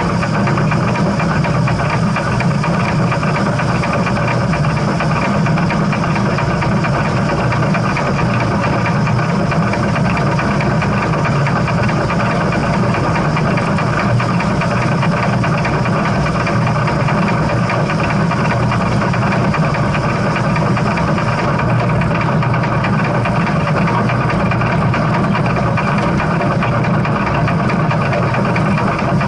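Steam train running: a loud, steady mechanical rumble that does not let up.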